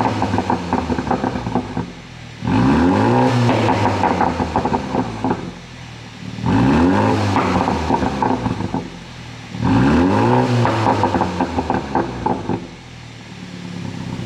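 BMW 330i's two-litre turbocharged four-cylinder being blipped three times, each rev rising and dropping back, followed each time by a couple of seconds of pops and crackles from the exhaust on the overrun, the effect of a pop-and-burble tune.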